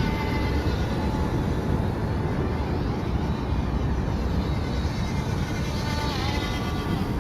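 Faint thin whine of a micro RC airplane's small electric motor and propeller, dipping in pitch about six seconds in, over a steady low rush of outdoor noise.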